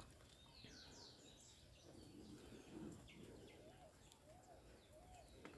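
Faint birdsong in the open: a few quick high chirps that fall in pitch near the start, then a short low arched call repeated about twice a second through the second half.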